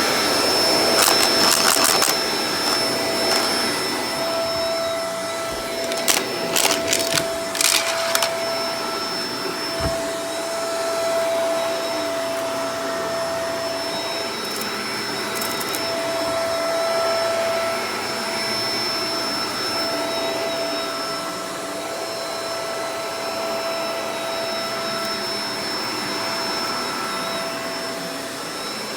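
Shark Professional Powered Lift-Away DLX (NV586) vacuum cleaner running steadily with a high motor whine, broken by brief clusters of clicking and rattling about a second in and again around six to eight seconds in.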